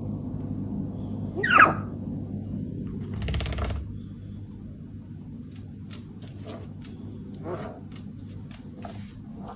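A pet parrot gives one loud, sweeping squawk about one and a half seconds in, followed by a brief scraping rustle and a run of short clicks and chirps, over a steady low hum.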